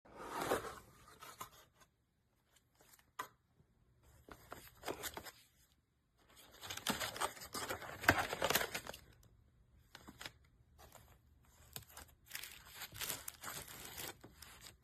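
Irregular bursts of rustling and crinkling handling noise, with short pauses between them.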